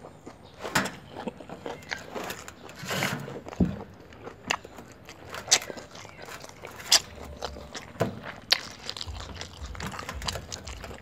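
A person chewing a mouthful of fresh rice-paper spring roll with greens, making irregular sharp mouth clicks.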